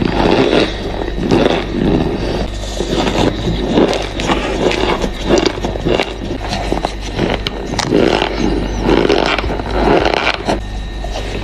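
Close-miked chewing of crunchy cornstarch, the packed starch crunching in the mouth in uneven bites about once or twice a second, over a steady low hum.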